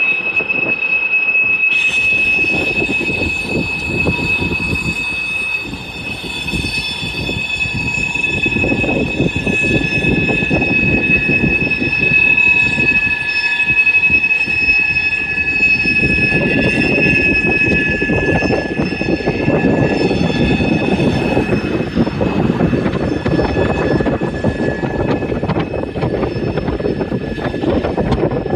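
Freight cars' wheels squealing against the rails: a steady, high-pitched squeal, joined about two seconds in by several shriller tones, over the rumble and clatter of the rolling cars.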